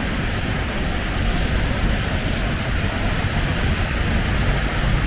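Steady city street ambience in a blizzard: a low, flickering rumble under an even hiss of traffic and wind.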